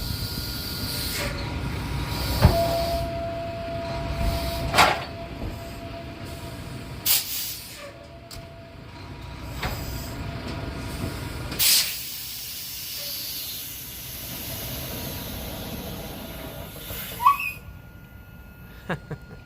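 Semi truck's air system hissing over a low rumble, with several sharp metal clunks from the trailer's sliding tandem axles being moved and their locking pins setting.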